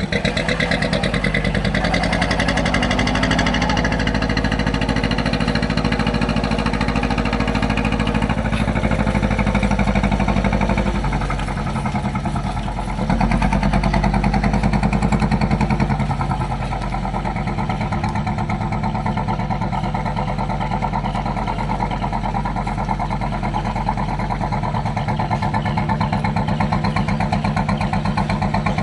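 Boat engine running steadily with a low, even beat. It drops back briefly about twelve seconds in, then runs louder for a few seconds before settling again.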